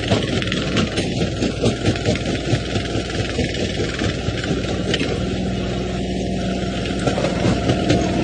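Jaw crusher running, breaking rock: a dense, irregular clatter and cracking of stone over a steady low machine hum.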